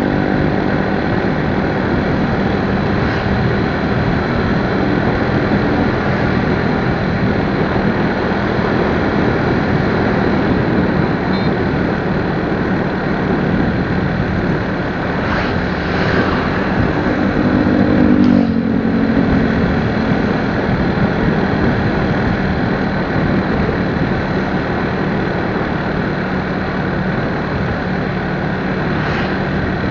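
Motorcycle on the move: engine running under steady, loud rushing wind and road noise, with a clearer engine drone for a couple of seconds near the middle.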